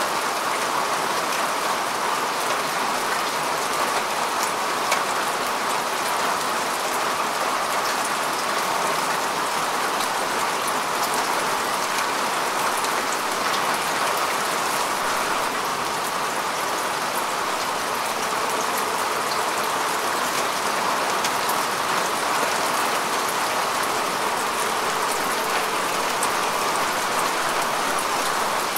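Steady rain falling on grass and earth, a dense even hiss with many fine drop ticks.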